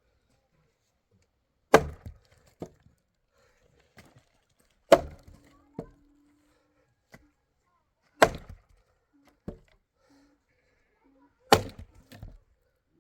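Four sharp, heavy strikes at a steady pace about three seconds apart, each followed by a lighter knock a moment later.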